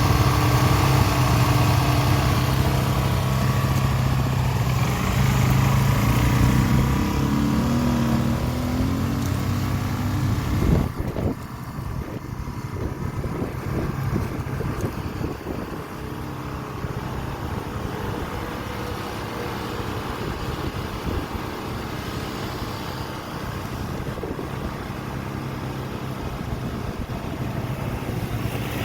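2011 Suzuki DR-Z400's single-cylinder four-stroke engine running. It is loud and steady for the first eleven seconds, then drops suddenly to a quieter, uneven running.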